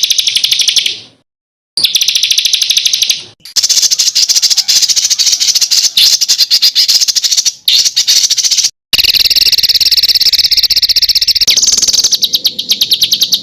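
Recorded songbird song of the 'tembakan' kind used as masteran tutoring material: long rapid-fire trills of very fast repeated high notes, in several phrases that break off into sudden silent gaps, with the note pattern changing near the end.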